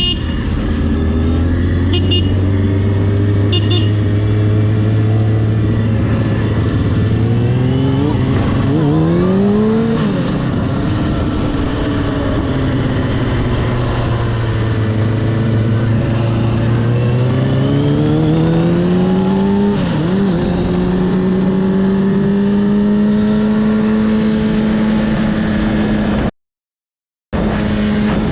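Motorcycle engine running under way, climbing in pitch through the gears: the note rises and drops at a gear change about ten seconds in and again about twenty seconds in, then holds steady. The sound cuts out for about a second near the end.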